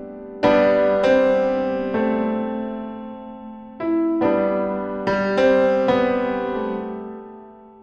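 Background piano music: slow sustained chords struck every second or so, each ringing and fading, dying away near the end.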